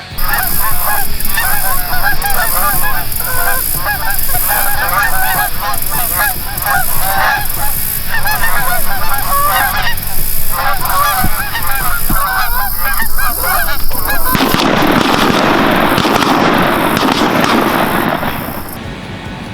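A flock of Canada geese honking, many calls overlapping. About fourteen seconds in the calls give way to a loud rushing noise that lasts about four seconds, then stops suddenly.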